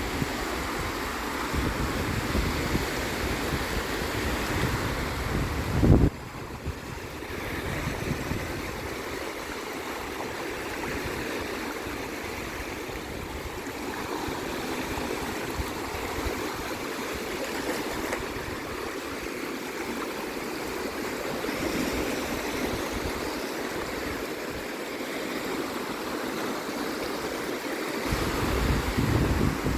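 Sea waves washing with a steady surf wash. Wind buffets the microphone with a low rumble for the first few seconds, ending in a loud gust about six seconds in, and picks up again near the end.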